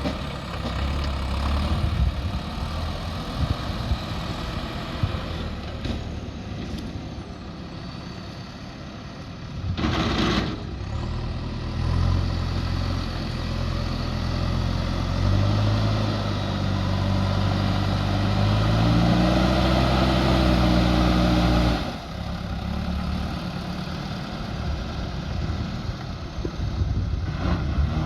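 JCB 3DX backhoe loader's diesel engine working. It revs up under load about halfway through, then drops back suddenly near the three-quarter mark. About a third of the way in there is a brief hissing burst.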